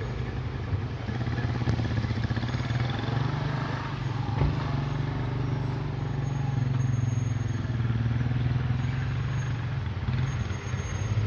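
Motorcycle engine running steadily, with a single sharp knock about four and a half seconds in.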